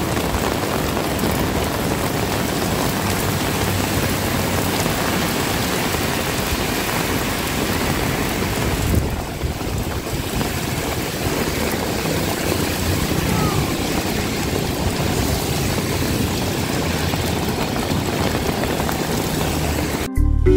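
Heavy rain pouring down in a steady, dense hiss, with a brief dip about nine seconds in.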